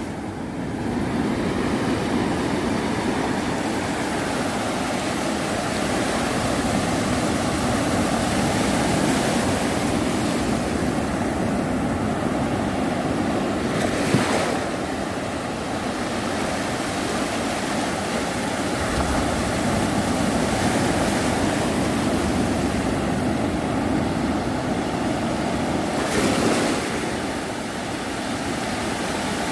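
Sea waves breaking on a beach: a continuous surf wash that swells and ebbs, with two brief louder surges, one about halfway through and one near the end.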